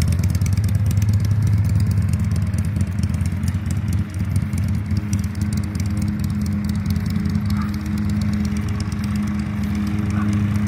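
Harley-Davidson V-twin motorcycle engine running steadily at a low, even speed.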